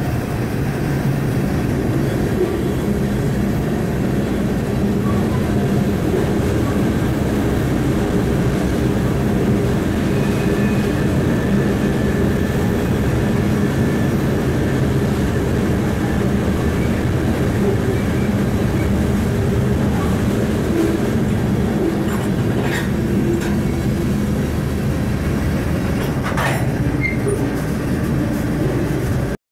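Freight train rolling along, heard from aboard a grain hopper car: a steady, loud rumble of wheels on rail, with a faint high wheel squeal through the middle and two short squeals near the end.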